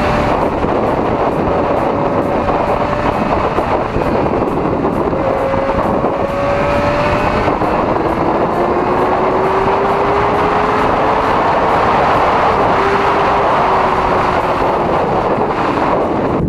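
Motorcycle riding at speed, its engine note climbing slowly under heavy wind rush on the microphone.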